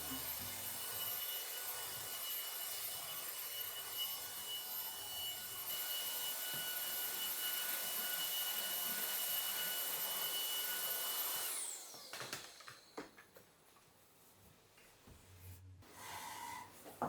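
An electric vacuum cleaner running with a steady hiss and a high whine. About eleven seconds in it is switched off and its motor winds down with a falling whine. Faint handling clicks and rustles follow.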